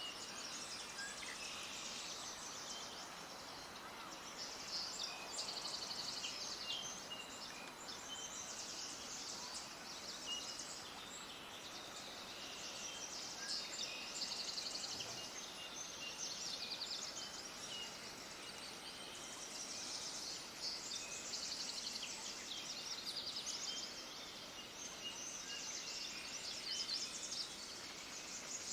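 A flock of small birds chirping and chattering together in a dense, continuous high-pitched chorus of rapid trills, over a steady background hiss.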